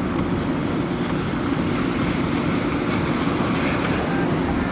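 Steady low rumble of a slowly moving car, heard from inside the cabin.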